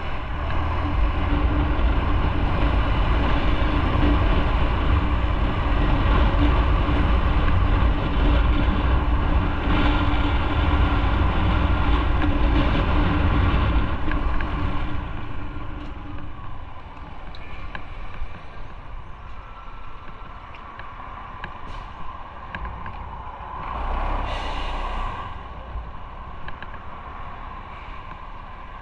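Motorcycle riding in traffic: steady engine and wind noise, loud at first, then dropping to a quieter level about halfway through. A brief hiss comes late on.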